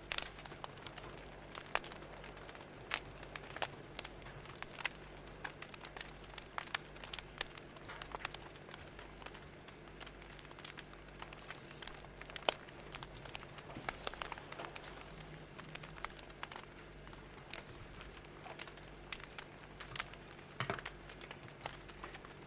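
Wood fire crackling: irregular sharp pops and snaps, several a second, over a faint steady background.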